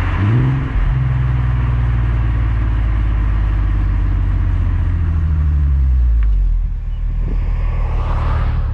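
Skoda Superb's 3.6-litre VR6 engine through a Gestec cat-back exhaust while driving in town: revs rise quickly near the start, settle into a steady low drone under light throttle, then fall off about six and a half seconds in as the throttle is lifted.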